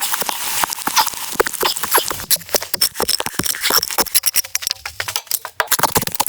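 Dense, irregular crackling and snapping: many sharp clicks close together, with no steady rhythm.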